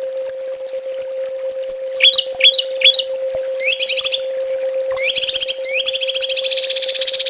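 Small songbird calling in fast high-pitched phrases: a run of about seven short falling notes, then a few upward-sweeping notes, then rapid trills, the longest starting about five seconds in. These are the rapid-fire 'tembakan' calls used as a training recording for small cage birds. A steady low hum runs underneath.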